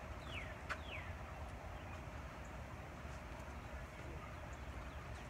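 A bird calling a quick series of falling whistles, about two a second, which stops about a second in, with one sharp click among them. A steady low outdoor rumble runs underneath.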